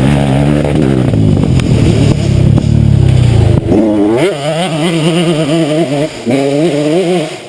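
Trail motorcycle engine running under throttle, its pitch rising and falling as it is revved, with a heavy low rumble through the first half and brief dips in power about six seconds in and near the end.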